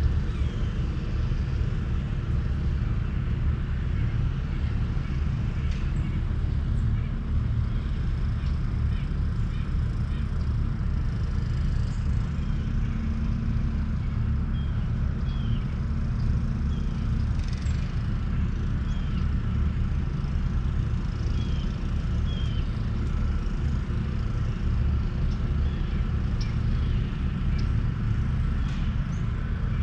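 Steady low engine-like rumble, as of a motor or traffic, with a few faint short high chirps in the middle.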